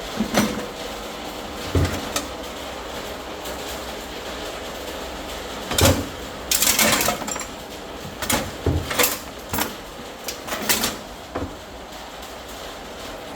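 Scattered metal knocks and clinks of tools and parts being handled, over a steady hiss. The loudest run of clatter is about halfway through, with a few more sharp knocks after it.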